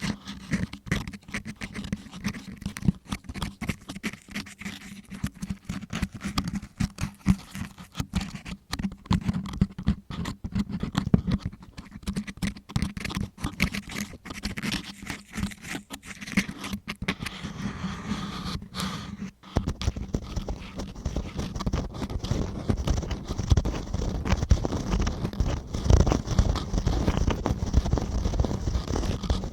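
Close-up ASMR ear-cleaning sounds: a tool scratching and scraping inside a microphone's ear, as a dense run of small irregular clicks and rasps. At about two-thirds of the way in it breaks off for a moment, then goes on as a fuller, more continuous rubbing.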